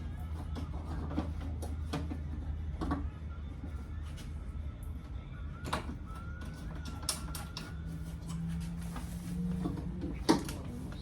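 Scattered clicks and knocks of hand tools and parts against a truck door's inner panel during window repair, the loudest a sharp knock near the end, over a steady low hum.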